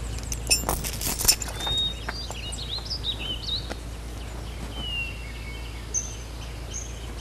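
Small birds chirping, many short rising and falling calls, with a few sharp clicks in the first second or so.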